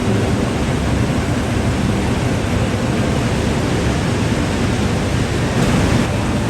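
Steady, loud noise of steel-mill machinery running, with a brief brighter hiss about six seconds in.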